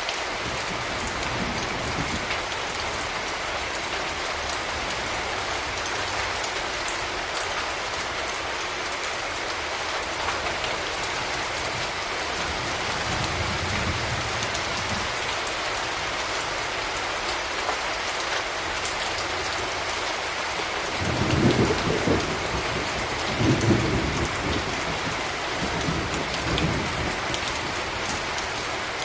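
Steady rain falling on hard urban surfaces, with low rumbles of thunder: a faint one near the middle and two stronger ones a couple of seconds apart about three-quarters of the way in.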